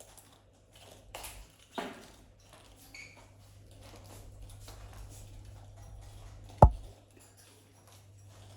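Parrots nibbling and crunching young carrots, with scattered small clicks over a steady low hum. A single sharp knock comes about three-quarters of the way through.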